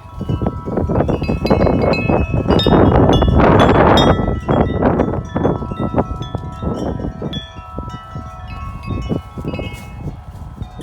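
Several wind chimes clanging and ringing continuously in strong gusting wind, many overlapping tones struck over and over. Wind buffets the microphone underneath, heaviest about two to four seconds in.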